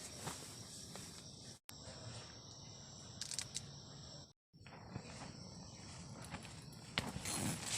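Insects chirring steadily at a high pitch over a low background hiss, with irregular rustling and crunching steps growing louder near the end. The audio drops out completely twice, briefly.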